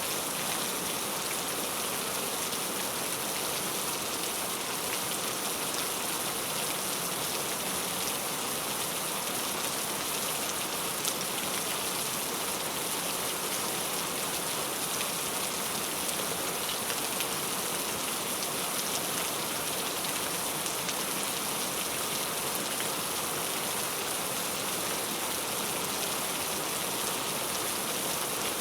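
Heavy rain falling steadily, a dense even hiss with faint individual drops ticking through it and one slightly louder drop about eleven seconds in.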